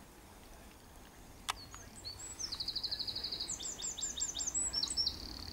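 A songbird singing: a fast, even trill about two seconds in, then a run of quick downward-sweeping notes. A single sharp click comes about a second and a half in.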